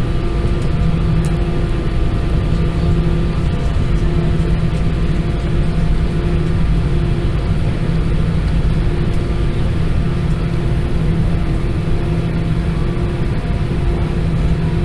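Cabin noise inside an Airbus A320-214 with its CFM56-5B engines running: a steady low rumble with a constant hum whose tones drop in and out every second or so.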